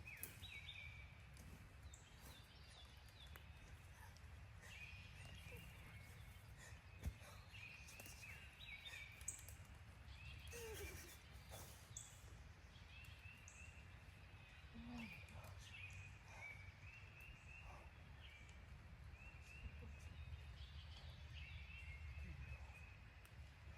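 Faint, repeated bird calls over a quiet outdoor background, with a few scattered small ticks.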